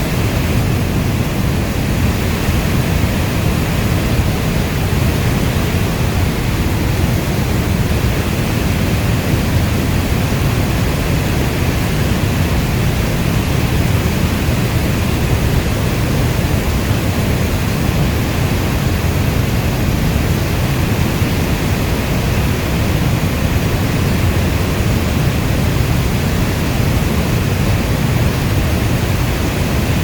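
Steady heavy rainfall: a constant, even wash of noise weighted toward a deep low rumble, with no single drops or thunder standing out.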